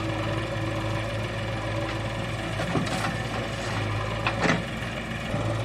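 Tractor engine running steadily, with a couple of short knocks about three seconds and four and a half seconds in.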